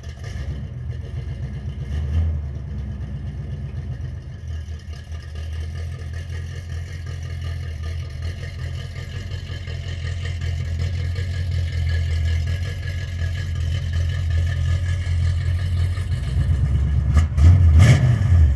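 Small-block Chevy V8 in a Chevelle running on its first startup, with a steady pulsing idle, a short rev about two seconds in and a couple of stronger revs near the end.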